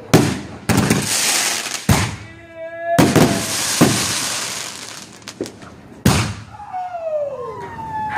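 Consumer fireworks going off: a string of sharp bangs, several followed by a hissing crackle, with whistling effects, one wavering tone a couple of seconds in and falling whistles over the last two seconds.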